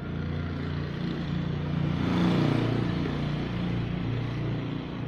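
A motor vehicle passing by: its engine and tyre noise grow louder to a peak about two seconds in, then fade away.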